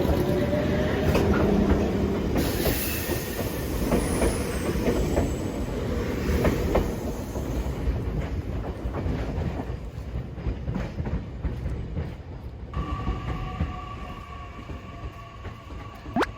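Nankai 2200-series Tenkū train running on the rails: a steady rumble with wheels clicking over rail joints and some wheel squeal, slowly growing quieter.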